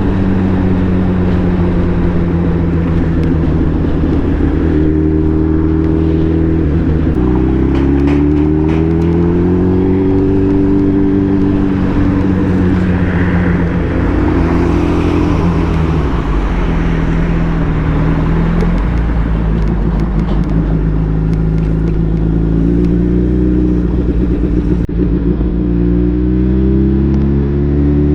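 Suzuki Hayabusa's inline-four engine running under way, holding fairly steady revs with a sudden change in pitch about a quarter of the way in and rises and falls through the middle. Near the end the revs climb steadily as the bike accelerates.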